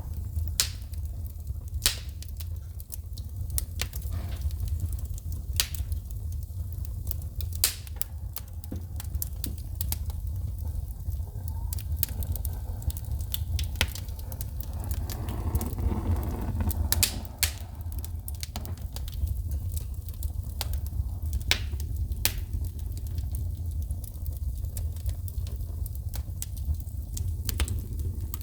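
Wood fire in a fireplace crackling, with sharp pops and snaps of shooting sparks at irregular intervals over a steady low rumble.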